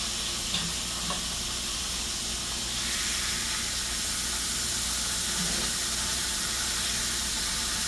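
Pork chops frying in hot oil in a pan: a steady sizzle that grows a little louder about three seconds in.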